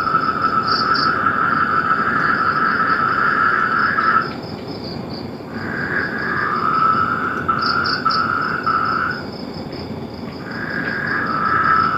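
Frogs calling in long pulsing trills of about four seconds each, two at slightly different pitches overlapping, over a steady high-pitched chirring.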